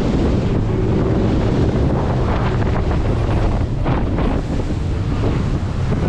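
Boat underway at sea, with wind buffeting the microphone, a steady engine drone and water rushing past the hull.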